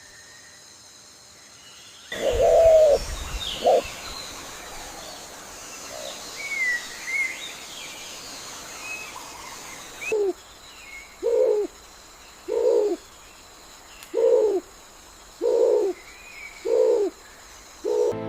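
Forest bird calls: scattered high chirps and twitters, then from about ten seconds in a low cooing call repeated seven times, evenly spaced about one every second and a quarter.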